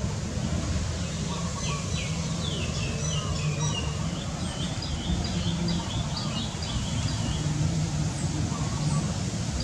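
A bird singing a quick string of repeated, up-and-down chirping notes for a few seconds, over a steady low hum.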